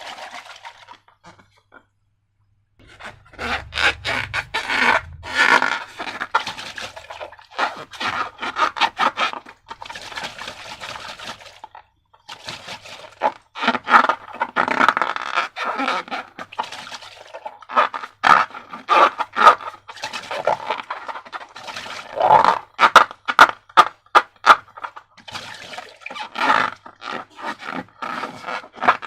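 Slime being mixed and worked by hand: sticky, wet crackling and scraping in irregular bouts, with a short pause about two seconds in.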